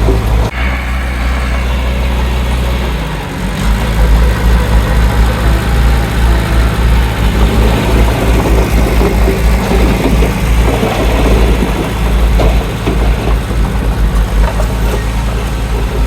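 Heavy diesel engine of earthmoving machinery running steadily with a deep, throbbing rumble. The sound changes abruptly about half a second in and grows fuller and heavier from about three and a half seconds.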